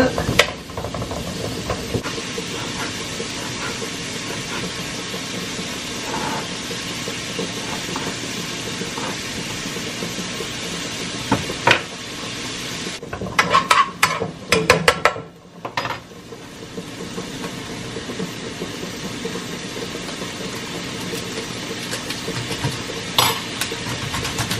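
Chicken and shrimp frying in butter in a pan, a steady sizzle. About halfway through, a utensil knocks and scrapes against the pan for a couple of seconds. The sizzle drops away for a moment just after, then comes back.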